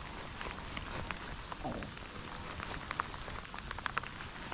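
Rain falling: many separate drops ticking at random over a steady hiss, a few sharper drops standing out about three and four seconds in.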